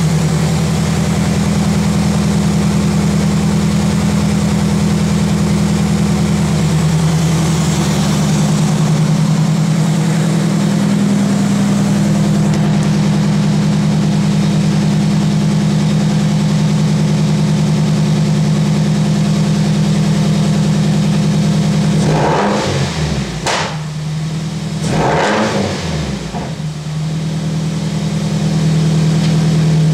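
Nissan KA24DE 2.4-litre four-cylinder engine with aftermarket blast-pipe cat-back exhaust idling steadily, then revved up and back down twice near the end. It runs with no knocks or ticks.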